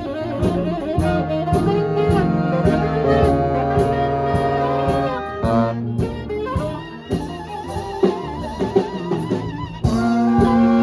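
Live swing band playing, with horns over a steady drum beat; a wavering held horn note in a quieter stretch past the middle, then the horns come in fuller and louder near the end.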